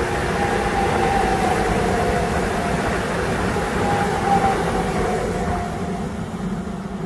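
A Meridian Stadler FLIRT electric multiple unit running past on the rails: a steady rumble of wheels on track with a faint high whine. It fades as the last car clears, about five to six seconds in.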